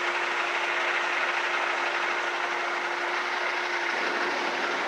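A 2012 International ProStar's MaxxForce diesel engine idling: a steady hiss and hum with one constant tone.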